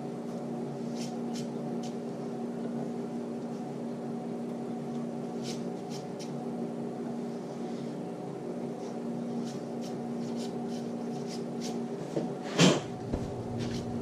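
Electric machine tool running steadily with a motor hum, with scattered light metallic ticks and one loud metal clank near the end.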